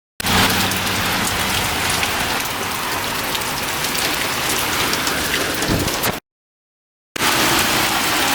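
Hailstones pelting down onto surfaces in a dense, steady patter. The sound cuts out abruptly to dead silence about six seconds in, where the recording breaks, then resumes a second later.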